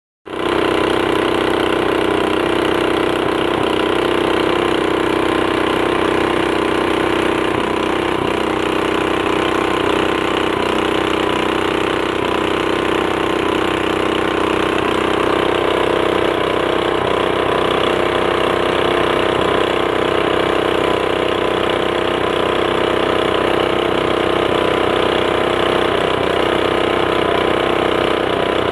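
A motor running steadily, a constant loud hum made of many steady tones with no change in speed.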